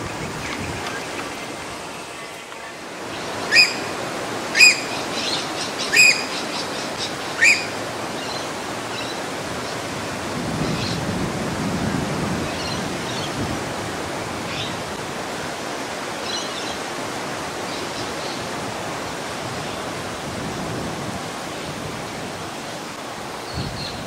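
Bird calls over a steady outdoor hiss: four loud, short calls about a second apart, followed by fainter high chirps.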